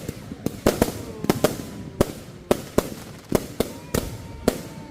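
A consumer fireworks cake firing a rapid string of about a dozen sharp bangs, spaced a quarter to half a second apart, with a faint whistle between some of the shots.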